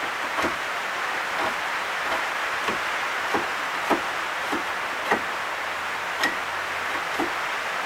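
A knife whittling a small piece of dense hardwood: about ten short, sharp cutting clicks, one every half second or so, over a steady hiss.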